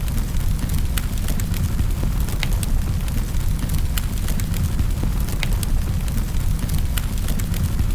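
Fireplace fire crackling, with frequent sharp pops and snaps over a steady low rumble.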